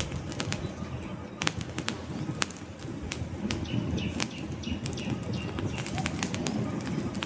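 Wood fire in a fireplace crackling, with many sharp pops and snaps over the low, steady rush of the flames.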